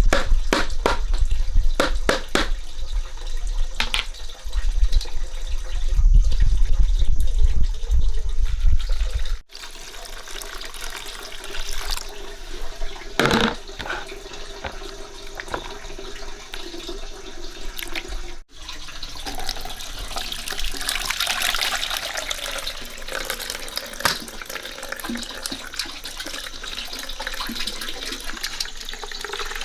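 Water splashing and running, as in washing or pouring in a kitchen, with sharp knocks and clatter in the first part. The sound cuts off abruptly twice and picks up again.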